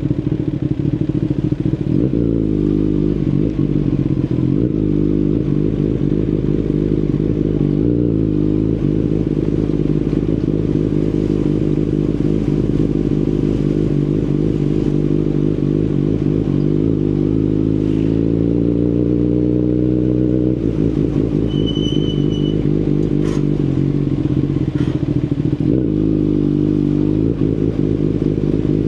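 Kawasaki Ninja ZX-10RR's inline-four engine through an Akrapovic full carbon exhaust, heard from the rider's position. The engine note rises and falls with throttle and gear changes, with a long steady climb in revs that cuts off suddenly about two-thirds through. There is a brief high beep shortly after.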